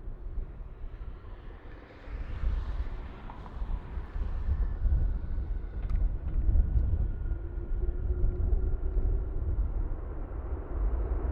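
Jet airliner's engines rumbling as it passes, with faint steady whine tones over the rumble, louder from about two seconds in.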